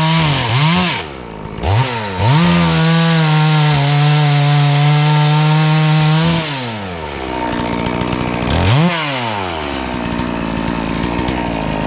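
72cc FarmMac F380W two-stroke gas chainsaw held at full throttle, dipping and revving back up about a second in. It then drops to a low idle about six seconds in, with one quick blip of the throttle near nine seconds.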